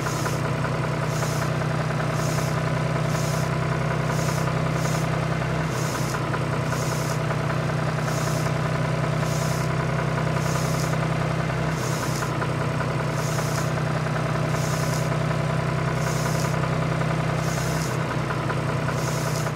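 Tractor engine running steadily at an even pace, with a regular chuff about three times every two seconds over a constant low hum.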